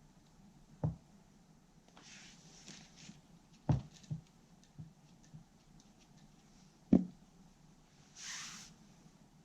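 Handwork with a spatula spreading and smoothing epoxy on a cracked imitation-marble tabletop: three sharp knocks with a few lighter taps between them, and two short scraping sounds, the second near the end.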